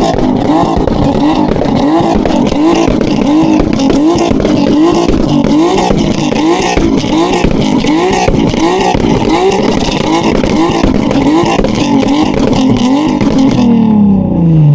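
A car engine held at high revs and blipped over and over, its pitch swinging up and down about one and a half times a second, with a crackling rasp over it. Near the end the crackle stops and the revs fall away.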